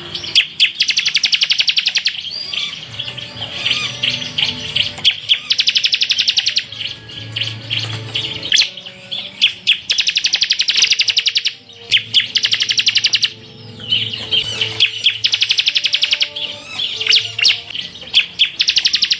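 Ciblek (bar-winged prinia) singing full 'tembakan': rapid-fire, high-pitched rattling trills, each about a second long, repeated again and again with brief chirps between them.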